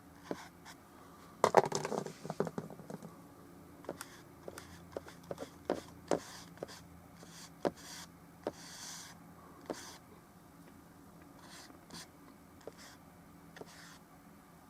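Scattered taps, clicks and light scrapes of oil-painting tools: a brush working against the canvas and palette, with a louder cluster of knocks and rattles about two seconds in.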